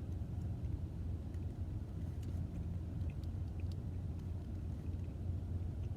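Steady low rumble of an idling car engine, with a few faint scattered clicks.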